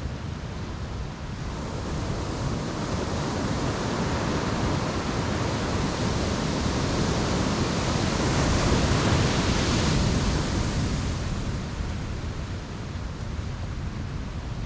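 Ocean waves breaking on a beach, a steady wash of surf that swells to a peak of hissing spray about eight to ten seconds in, then eases back.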